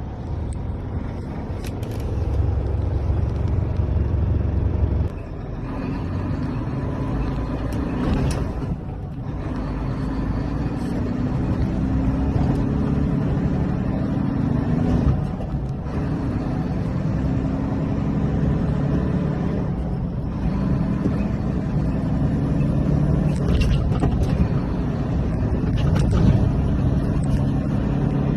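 UD Trucks Quon tractor's GH13 diesel engine running under way. Its pitch climbs gradually and breaks off several times, roughly every four to six seconds, as the automated transmission changes gear.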